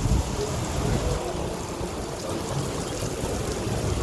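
Heavy rain pouring down, with an uneven low rumble underneath.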